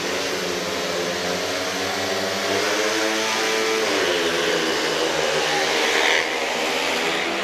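Speedway bikes' 500 cc single-cylinder methanol engines revving hard at the start and racing away. The engine pitch climbs, dips about four seconds in, then carries on.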